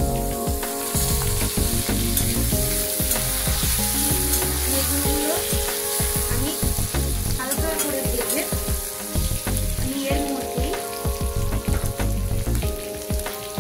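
Eggplant pieces sizzling as they fry in hot mustard oil in a metal kadai, with a metal spatula stirring and scraping them against the pan.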